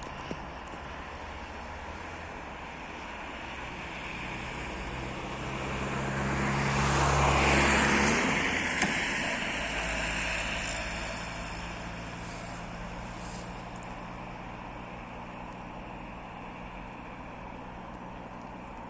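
Electric train passing close by: its rumble and motor tones build to a peak about seven seconds in, drop in pitch as it goes past, then fade, with a single sharp click just after the peak.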